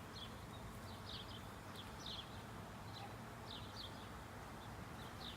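Small birds chirping: quick, high, short chirps repeated several times a second, over a faint steady background hum.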